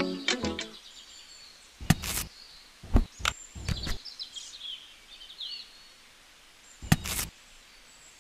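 Music dies away at the start, then a few scattered sharp knocks and clicks, with faint bird chirps in the background.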